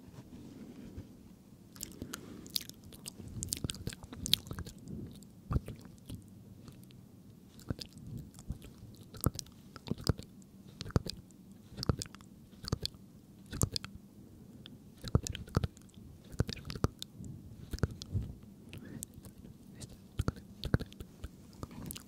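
Close-miked ASMR mouth sounds: an irregular run of sharp, wet clicks and smacks, several a second in places.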